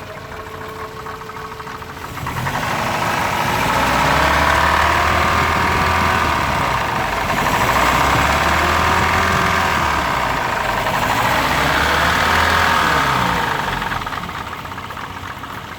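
Riley 1.5-litre four-cylinder engine running, revved up about 2 s in and swelling and easing back roughly three times before settling towards idle near the end. It is running better now after cranking and running lumpily on a fault believed to be carburettor dirt or ignition.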